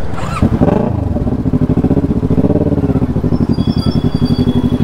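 Kawasaki motorcycle's inline-four engine running, its note rising and falling a little about half a second in and again around two to three seconds.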